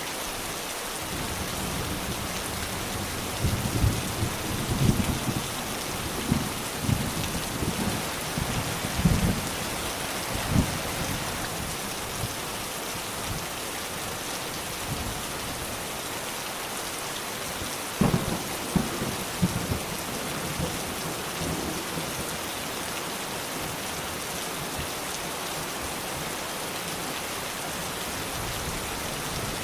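Steady rain hissing on surfaces, with rolls of thunder rumbling low in two spells: several surges a few seconds in, and another short spell past the middle.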